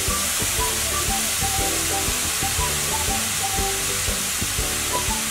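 Grated carrots sizzling steadily in hot ghee in a kadhai as they are stirred with a spatula.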